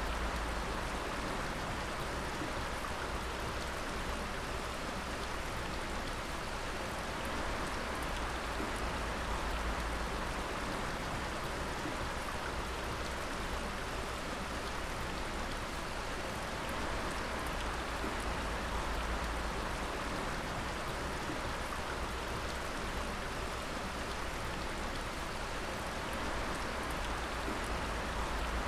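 Water dripping in a steady, dense patter like rain, with a steady low rumble underneath.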